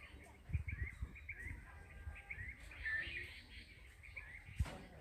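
Small birds chirping, many short high chirps one after another, with a few dull low bumps about half a second in and a sharp knock near the end.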